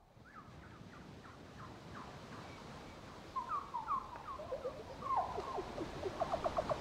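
Birds chirping, a string of short rising and falling calls that fade in from silence and grow louder, ending in a quick run of repeated notes.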